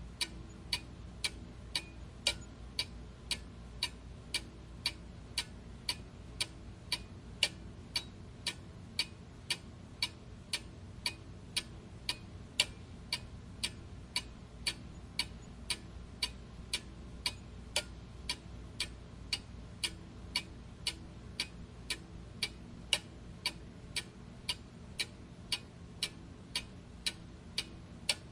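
Clock ticking steadily, about two ticks a second, over a low steady background hum.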